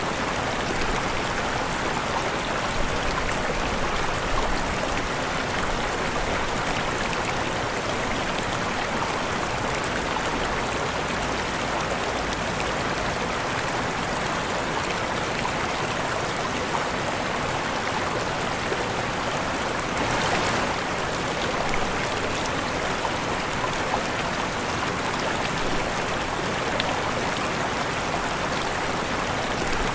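Waterfall: steady, even rush of falling water with no breaks, swelling slightly about two-thirds of the way through.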